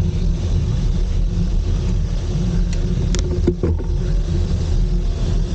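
Steady low rumble of wind and road noise on a cyclist's camera microphone while riding, with a few brief clicks a little past halfway.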